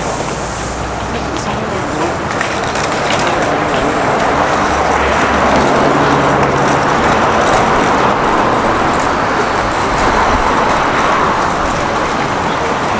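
City street traffic: a vehicle passing, the noise building over the first few seconds and staying loud through the middle.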